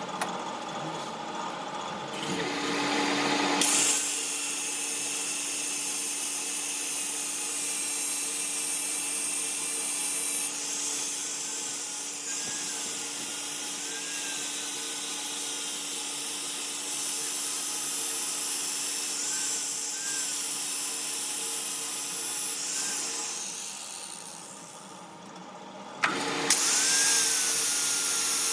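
A power tool running steadily, with a high hiss over a steady motor hum. It builds up over the first few seconds, dies away about three-quarters of the way through, and starts again abruptly a couple of seconds later.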